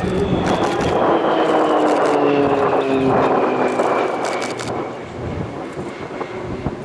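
Military aircraft flying past at an airshow: the engine noise is loud at first, then its pitch slides steadily down and the sound fades as the aircraft moves away.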